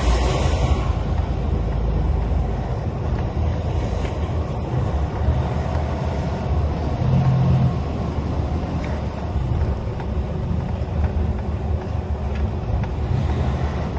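Steady road-vehicle rumble of heavy traffic, with a deeper engine note swelling briefly about seven seconds in.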